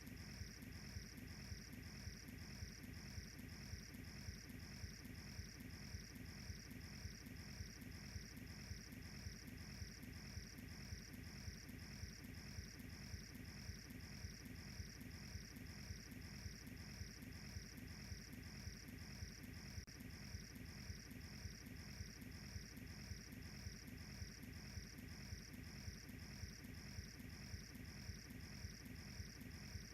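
A cricket chirping in an even, unbroken rhythm, about two or three high chirps a second, over a faint steady low rumble.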